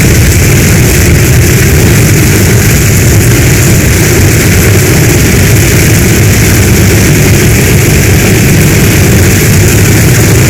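Heavy storm rain, loud and unbroken, over a deep, steady low rumble.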